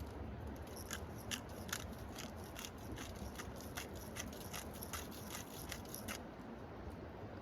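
A run of short, sharp clicks or snips, about three a second, that stops about six seconds in.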